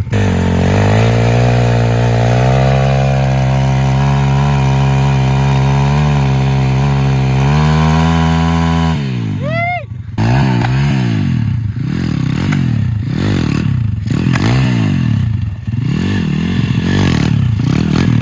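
Pit bike engine held at steady revs for about nine seconds, then drops off and is revved up and down over and over, about once a second.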